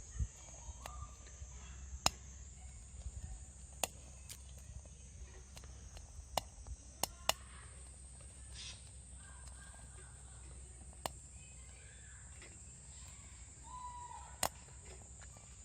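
Scattered sharp snaps and cracks as small twigs catch in a compact wood-burning camp stove, over a steady high-pitched insect drone. A few short bird calls come in, one near the end.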